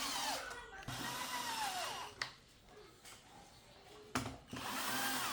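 Small electric motor or power tool whirring in three short runs, its pitch sliding up and down, with a pause of about two seconds before the last run.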